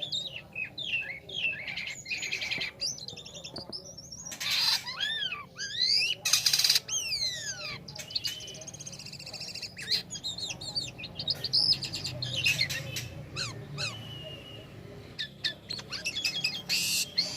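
A jalak kapas starling sings a busy, varied song of quick whistles, chirps and sweeping slurred notes, broken three times by a short harsh rasping call.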